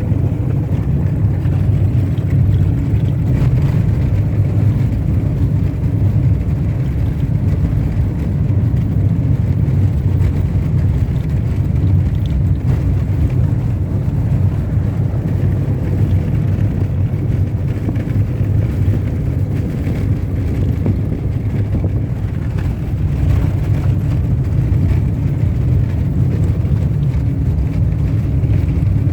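Vehicle driving along an unpaved dirt road: a steady low rumble of engine and tyres on the rough surface.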